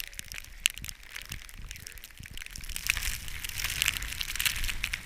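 Crunching in snow, an irregular run of crisp crackles, growing denser and louder from about three seconds in.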